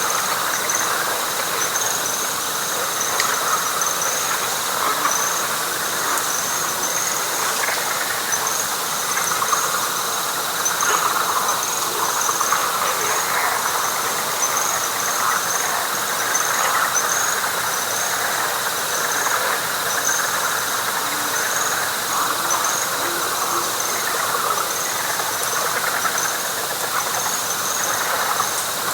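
Night chorus of frogs and insects: a dense, continuous mass of frog calls, over which a high insect trill repeats in short pulses about once a second, with a steady high whine beneath it.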